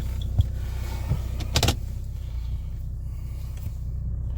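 Mercedes OM606 straight-six turbo diesel idling steadily, heard from inside the cabin, with a few sharp clicks of dashboard switches being pressed; the loudest is about a second and a half in.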